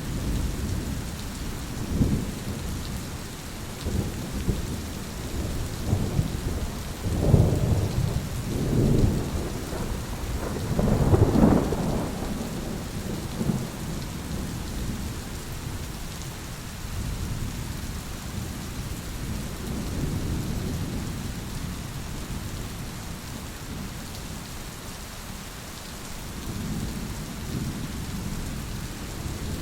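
Thunderstorm: steady rain falling with thunder rumbling through it, a run of loud peals about a third of the way in, then softer, distant rumbles.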